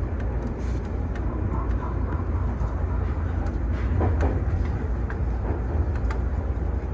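Toei 6500 series subway train running, heard from inside the driver's cab: a steady low rumble of wheels and running gear, with a few faint clicks.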